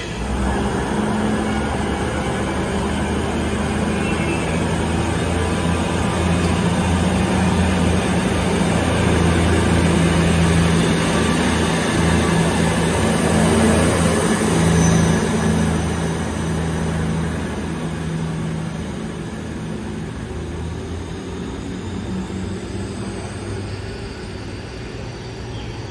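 Train running past with a steady low hum and rail noise, growing louder toward the middle and then easing off.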